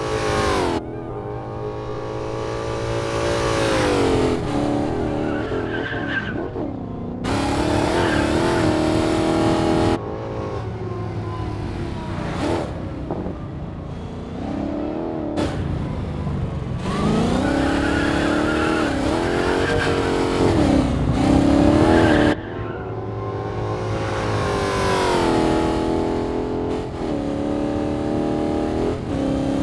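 Dodge Challenger SRT Hellcat's supercharged V8 revving hard again and again, its pitch climbing and dropping, in several clips that cut off suddenly one into the next.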